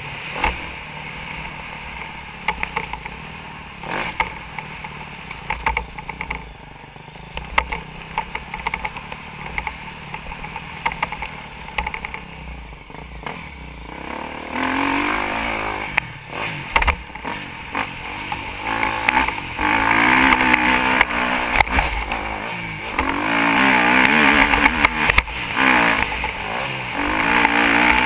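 Motocross dirt bike engine revving up and down while riding, with many sharp knocks. The revs climb and fall repeatedly and get louder in the second half.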